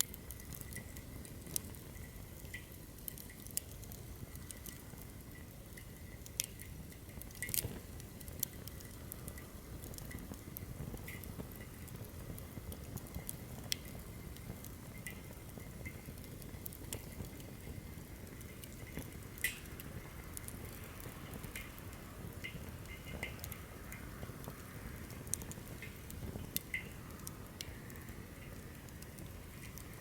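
Firewood burning in a campfire stand, crackling with sharp, irregular pops and snaps over a low, steady rumble of flame.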